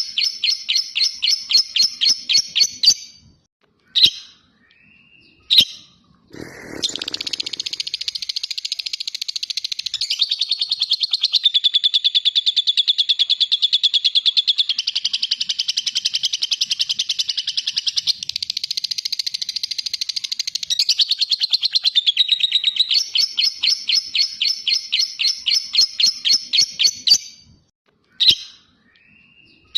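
Lovebird ngekek: a long, rapid, chattering trill of high repeated notes held for about sixteen seconds without a break. Before and after it come runs of separate quick chirps, about five a second, and a few short single calls in the gaps.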